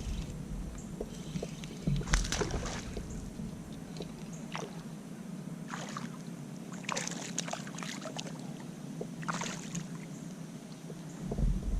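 Water splashing and sloshing around a kayak, in short bursts every few seconds.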